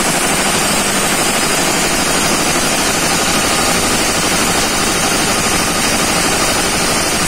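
Marine auxiliary diesel generator engine running steadily and loudly, with a leak at the injector of cylinder 1: combustion gas escapes past the injector's copper sealing ring or seal, the sound the mechanic takes as the sign of the leak.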